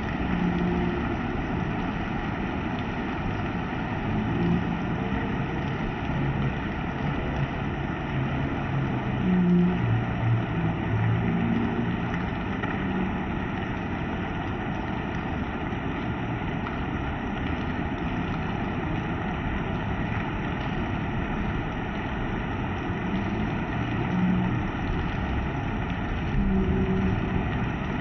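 Heavy rain falling as a steady rushing noise, with a low rumble that swells now and then.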